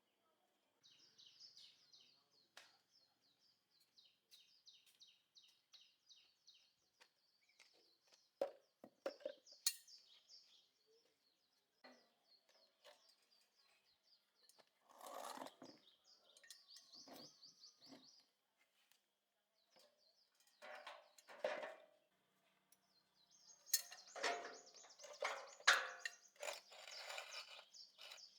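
Birds chirping in rapid high trills, with scattered knocks and clinks that cluster most loudly near the end.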